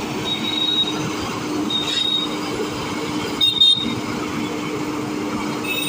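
Road-building machinery running steadily with a low hum. Three brief high-pitched squeals come over it, about half a second, two seconds and three and a half seconds in.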